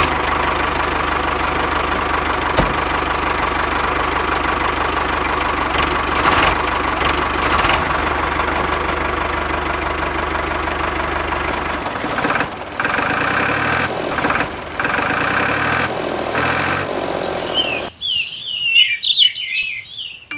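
Tractor engine running steadily with a low hum, turning to an uneven chugging about twelve seconds in and fading out near the end. Birds chirp in the last couple of seconds.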